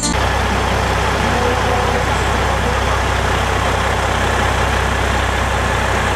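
Heavy truck diesel engine idling, a steady low rumble that holds at an even level.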